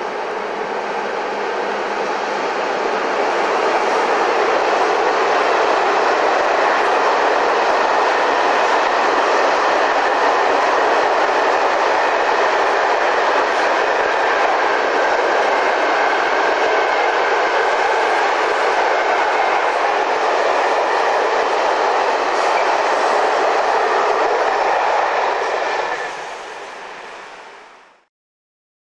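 Mixed freight train of tank wagons and boxcars, hauled by a BLS Re 465 and an Re 460 electric locomotive, rolling past on the track: a steady rolling noise of wheels on rail. It builds over the first few seconds, then fades near the end and cuts off.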